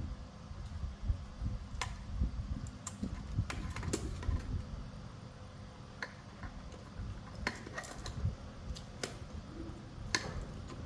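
Irregular light clicks and taps of tools and small parts being handled during repair work, over a low background rumble.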